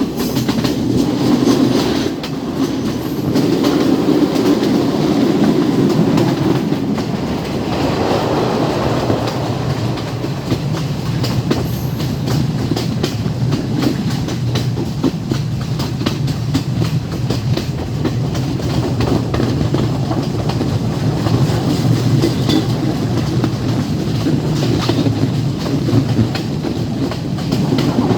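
Train running along the track, its wheels clattering over the rails in a steady stream of clicks over a continuous rumble.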